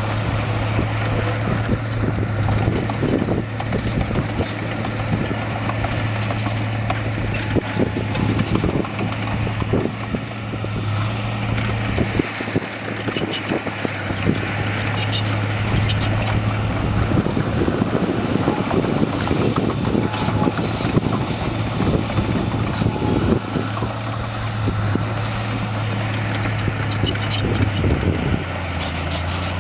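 Heavy diesel earthmoving machinery running steadily with a deep, even engine hum, over many short clanks and knocks of metal and rock. The clatter grows busier and the hum breaks up for several seconds past the middle.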